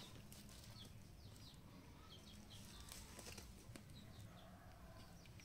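Near silence: faint outdoor room tone with small birds chirping, short high notes that slide downward, scattered throughout.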